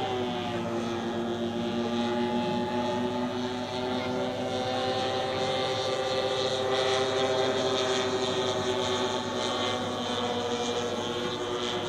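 Twin petrol engines of a giant radio-controlled Cessna 310 model running steadily in flight. The engine note drops slightly in pitch at the start as the plane passes, then holds a steady drone.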